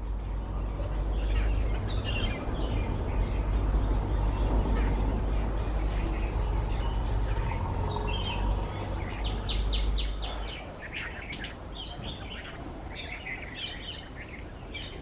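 Red-vented bulbul singing: short, bright chirping phrases repeated throughout, with a quick rattle of about eight notes near ten seconds in. A heavy low rumble, the loudest thing, runs underneath and stops about ten and a half seconds in.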